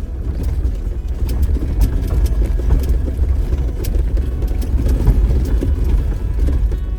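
Off-road vehicle driving over a rough, potholed dirt trail: a steady low rumble of engine and tyres, with scattered knocks and rattles from the bouncing.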